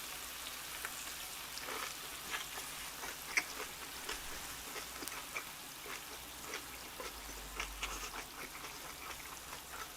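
Close-miked chewing of a large bossam wrap of boiled pork and kimchi cabbage: irregular wet, crunchy crackles and smacks over a steady hiss.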